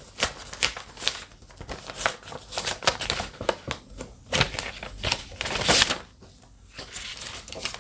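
Paper rustling and crinkling as papers are taken out and handled, with scattered small taps; it eases off briefly about six seconds in.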